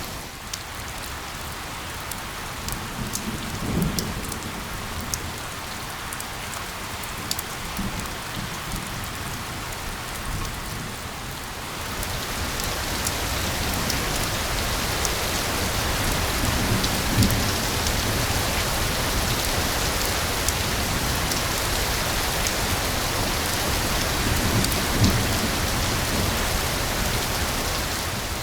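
Steady rain falling, with sharp ticks of single drops over a dense hiss; it grows louder about twelve seconds in.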